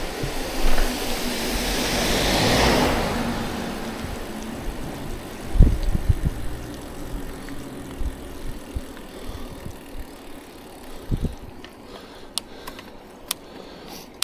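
Riding noise from a bicycle on a road: steady wind and tyre noise, with a passing vehicle swelling and fading about two to three seconds in. There are two dull thumps, one near the middle and one later on, and a few sharp ticks near the end.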